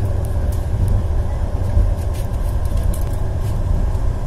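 Steady low rumble of a passenger train carriage running along the track, heard from inside the carriage, with a few faint ticks.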